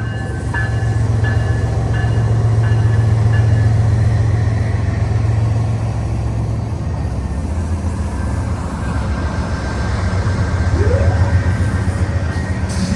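Diesel locomotives of a BNSF freight train running as the train pulls out, a loud steady low rumble. A bell dings about twice a second for the first five seconds, and a short rising tone is heard about eleven seconds in.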